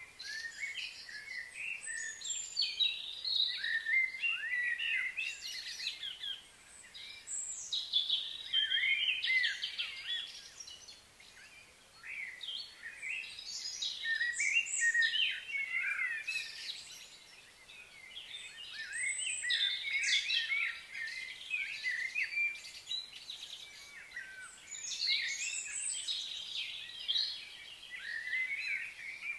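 Wild birds singing and chirping, several overlapping high calls coming in bursts with short lulls between them.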